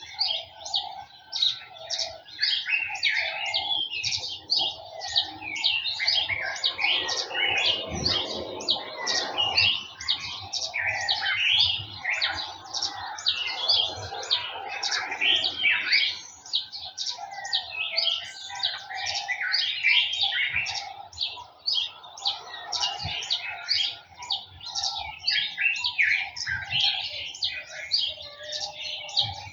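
A dense chorus of small garden birds chirping and twittering continuously, many short rapid high-pitched calls overlapping.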